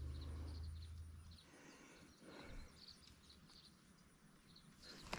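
Near-silent outdoor quiet with scattered faint high bird chirps. A low held note, the tail of the intro music, fades out about a second and a half in.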